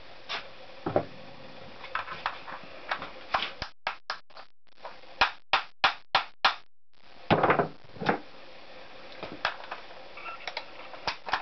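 Metal hand tools clinking and knocking against engine parts as a motorcycle engine is taken apart: scattered single clicks and knocks, a quick run of sharp clicks near the middle, and a louder knock a little later.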